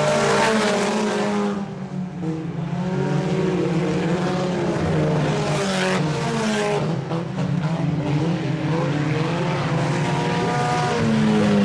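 A pack of IMCA Sport Compact race cars, four-cylinder compacts, running at speed on a dirt oval. Several engines rise and fall in pitch as they pass, with a short dip in level about two seconds in.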